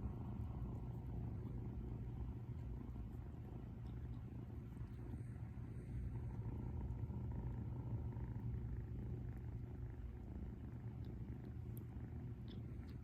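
Domestic cat purring steadily in a low, continuous rumble: a relaxed, contented cat.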